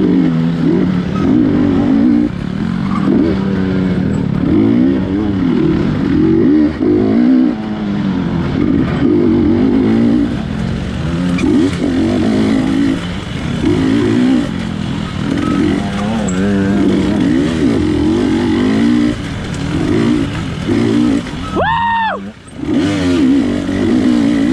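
GasGas 250 dirt bike engine working hard on a tight trail, its revs climbing and dropping over and over as the throttle is worked. Near the end the engine note dips briefly, then there is one quick, clean rev up and back down.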